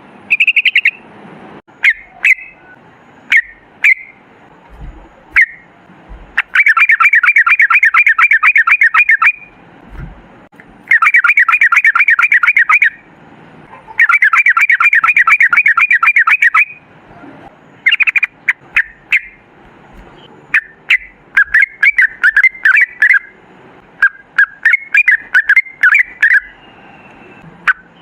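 Yellow-vented bulbul (trucukan) calling: three long, rapid rolling trills of repeated chattering notes, with short chirps and sharp clicks in between.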